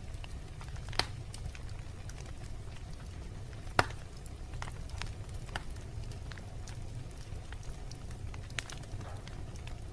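Wood fire burning in a fireplace: a steady low rumble of flame under irregular crackling, with two sharp pops standing out, about a second in and just before the four-second mark.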